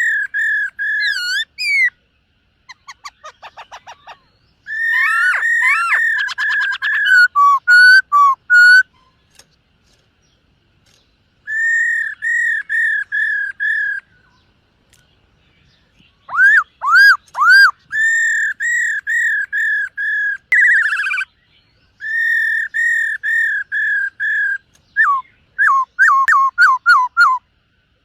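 Black-throated laughingthrush singing: loud, clear whistled phrases built of quickly repeated notes, delivered in several bouts with pauses of a second or two between them.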